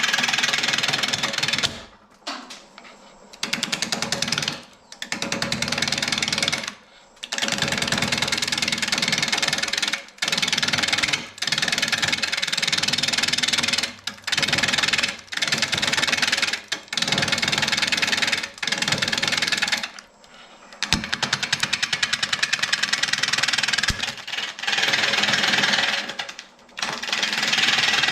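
Lathe gouge roughing a bark-covered, out-of-round mesquite blank: a loud, rapid chatter of interrupted cuts, broken off about a dozen times as the tool is lifted from the wood.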